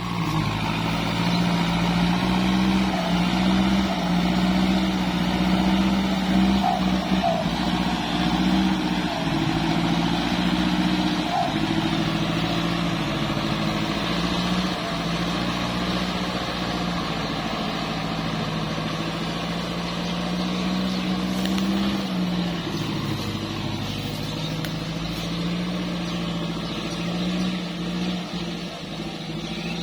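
Kubota MU49-series tractor's diesel engine running steadily, working at a constant speed; its note sags about two-thirds of the way through, as under extra load, then picks back up.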